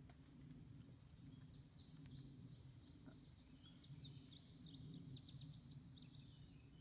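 Near silence: faint outdoor room tone, with a quick run of short, high bird chirps from about four to six seconds in.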